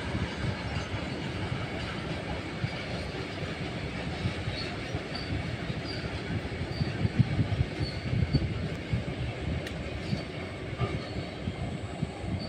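Loaded goods train of box wagons rolling past at a distance: a steady low rumble of wheels on rail, with a few short high squeaks in the middle.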